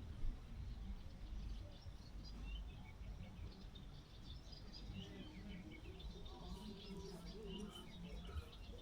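Small birds chirping and twittering in many short, scattered calls that pick up about two seconds in, over a low wind rumble.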